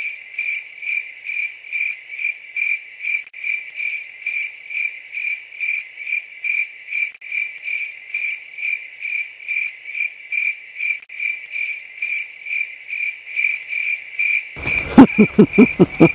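Cricket chirping: a high, evenly repeated chirp that goes on steadily. About a second and a half before the end, a loud, low, rapidly pulsing sound joins it.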